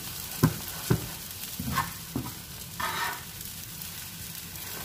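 Egg-and-bread slice sizzling steadily in a frying pan, with a slotted metal spatula knocking several times against the pan in the first couple of seconds and scraping once about three seconds in as the slice is pressed and lifted to turn it over.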